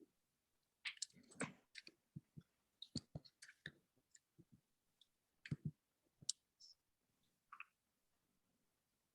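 Scattered, irregular clicks and light taps with near silence between them, like keys or a mouse being clicked at a desk.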